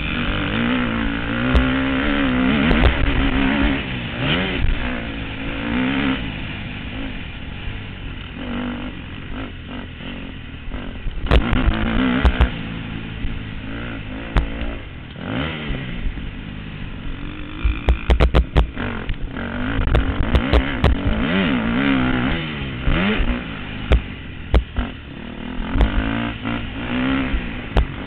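Motocross motorcycle engines revving up and dropping off again and again as bikes ride the track, with sharp knocks and clicks scattered throughout.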